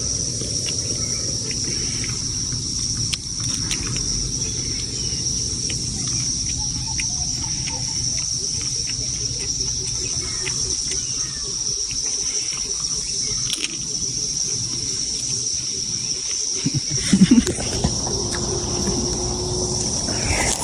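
Insects shrilling steadily in one continuous high-pitched drone, with scattered light taps and rustles and a few louder bumps near the end.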